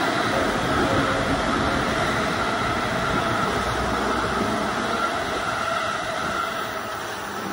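Electric trains passing on the tracks below: a steady rush of wheels and motors with a faint whine, easing a little near the end.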